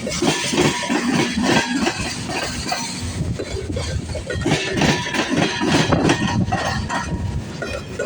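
Freight cars of a long CSX train rolling past, wheels rumbling and clattering on the rails with a dense run of metallic clanks and knocks.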